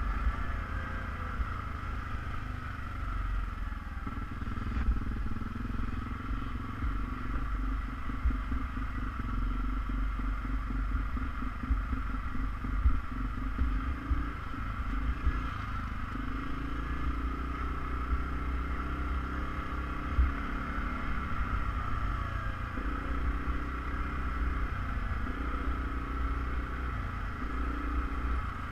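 ATV engine running under way, its pitch shifting up and down several times with the throttle over a heavy low rumble, with a few sharp knocks.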